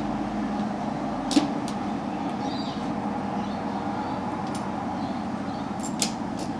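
Two sharp clinks, about a second and a half in and again near the end, as the loosely attached stainless slip-on exhaust is worked into place on the motorcycle, over a steady low hum.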